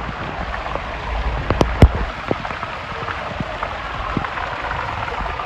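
Heavy rain pouring steadily, with scattered sharp drops striking close by, the loudest just under two seconds in.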